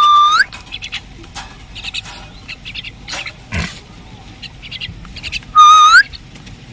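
Two loud, clear whistles about five seconds apart, each held on one note and then rising sharply at the end. Between them come soft, quick, high chirps of birds.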